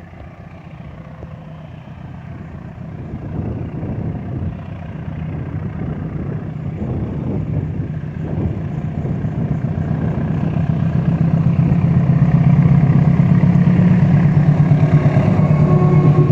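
Diesel locomotive engine with a low, steady hum, growing steadily louder for about twelve seconds as it approaches, then holding loud near the end.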